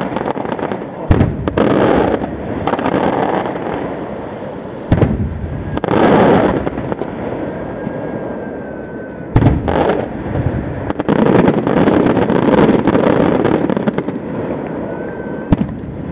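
Aerial firework shells (murtali) bursting in a festa fireworks display. There are sharp bangs about a second in, around five seconds, around nine seconds and near the end, with long stretches of dense crackling and rumbling bursts between them.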